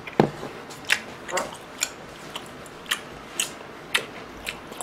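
Close-miked chewing of a mouthful of food with the mouth closed: wet, clicking smacks about twice a second.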